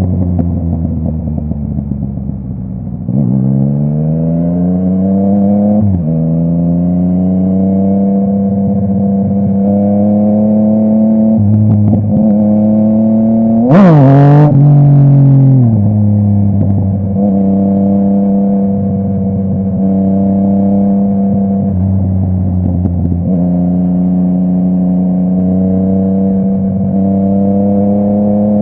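Yamaha MT-09's inline three-cylinder engine running through a full Akrapovic exhaust while riding: the revs climb and drop back through gear changes, then hold at a steady cruise. About fourteen seconds in, the revs jump and fall away with a sharp, loud crack, the loudest moment.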